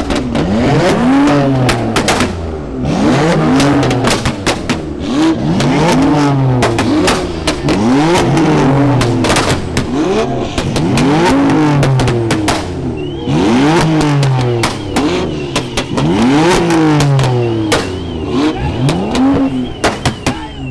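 A car engine is revved over and over, each rev rising quickly and then falling away, roughly one every second and a half, with sharp crackles from the exhaust. From about two-thirds of the way in, a car alarm warbles in the background.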